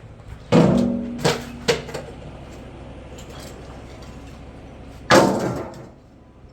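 A metal object struck four times, each blow ringing briefly: a loud clang about half a second in, two lighter ones soon after, and another loud one near the end.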